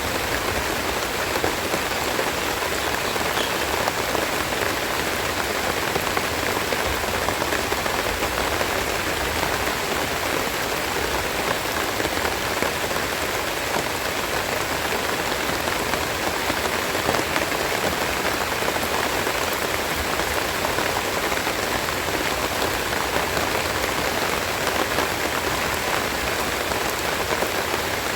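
Steady rain falling, a dense, even patter of drops that neither builds nor eases.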